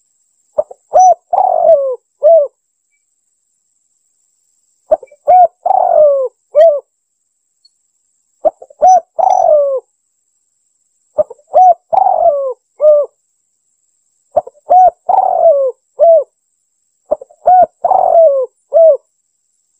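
Spotted dove cooing: six repeated phrases about every three seconds, each a few short coos around one longer, falling coo. It is a recording used as a lure call for hunting doves.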